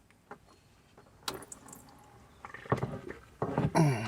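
Handling noises from gloved hands working the old oil filter and drain area during an oil change: rustling and knocking that start about a second in and get louder toward the end, with a short grunt-like vocal sound near the end.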